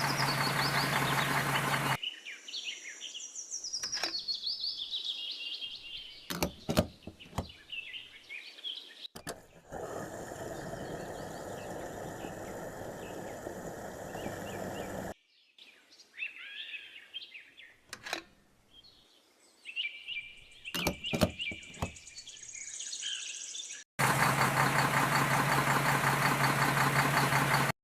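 A small engine running steadily, then bird chirps with a few sharp clicks, a stretch of steady hissing noise, more chirps, and the engine running again near the end.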